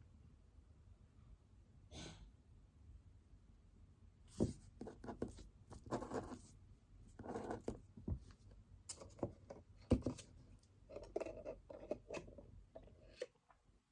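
Pen writing on paper: irregular scratchy strokes starting about four seconds in, with a few sharper taps of the pen among them, over faint room noise.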